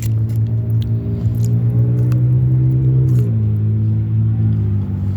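Car engine idling with a steady hum that shifts slightly in pitch about three seconds in, with a few faint clicks over it.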